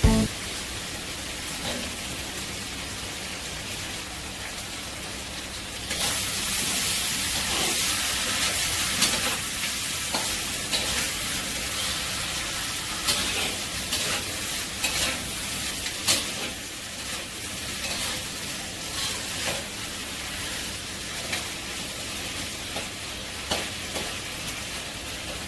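Chicken and potato pieces sizzling as they fry in a wok, stirred with a metal spatula that scrapes and taps against the pan now and then. The sizzling grows louder about six seconds in.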